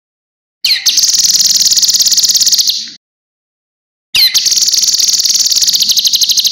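Cucak kinoi singing two long, high, fast trills, each lasting about two seconds and opening with a quick downward-slurred note, with a pause of about a second between them.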